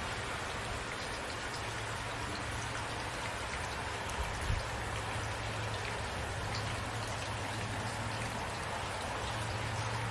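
Steady rain falling, with individual drops ticking on a surface over an even hiss and a low steady hum underneath; one drop lands slightly louder about four seconds in.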